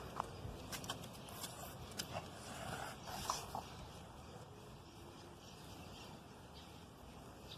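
A pug moving about: scattered light clicks and taps with a couple of brief squeaks in the first few seconds, then quieter.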